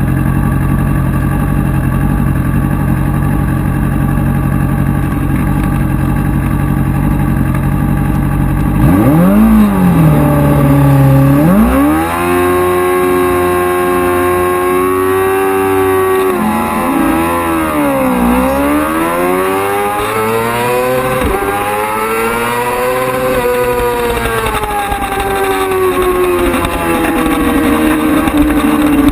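Racing motorcycle engine held at steady revs, then revved hard and accelerating about nine seconds in, its pitch climbing and dropping over and over as it goes up and down through the gears.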